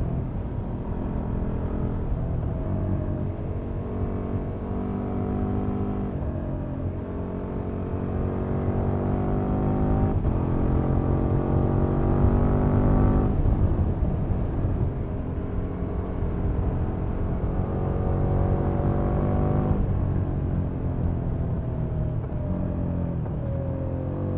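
KTM Super Duke's V-twin engine through its stock exhaust, pulling up through the gears: the pitch climbs steadily and drops at each of three upshifts, then falls away slowly as the throttle eases near the end. A low rumble of wind and road noise runs underneath.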